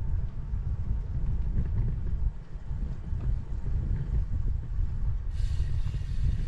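Wind buffeting the microphones of a 360 camera carried on a moving bicycle: a loud, fluttering low rumble. A steady hiss comes in suddenly near the end.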